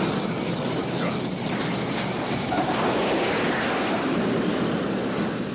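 Jet aircraft flying past: a steady loud rushing noise with a high, wavering whine on top that fades out about three seconds in.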